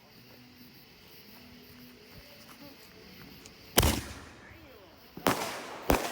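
Fireworks going off: three sharp bangs. The first comes about four seconds in and dies away briefly; the other two follow close together near the end.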